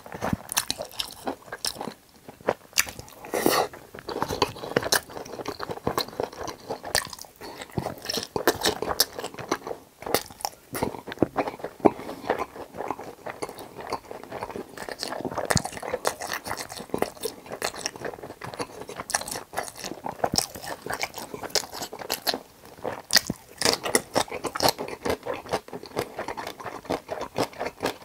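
Close-miked crunching and chewing of crispy food, many crunchy bites in quick, irregular succession.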